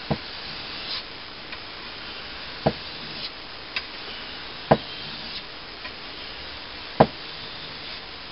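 Four dull knocks, about two seconds apart, with fainter clicks and short light scrapes between them: hard objects handled on a workbench.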